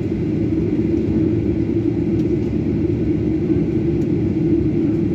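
Steady loud rumble of a Boeing airliner's jet engines and airflow heard from inside the passenger cabin.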